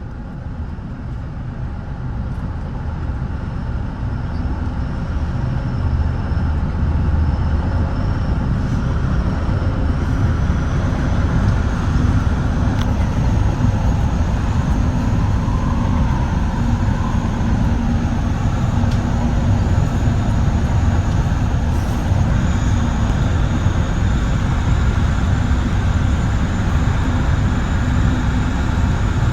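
Running noise of a Metra bi-level commuter cab car under way: a steady deep rumble of wheels on rail, heard from inside the car. It grows louder over the first several seconds, then holds steady, with a faint high whine over it.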